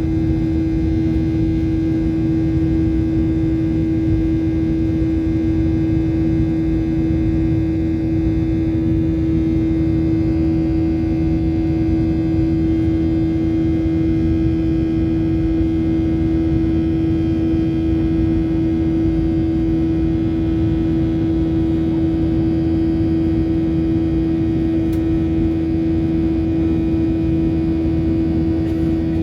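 Airliner cabin noise: the jet engines drone steadily with a strong, constant hum and a rumble of air beneath it.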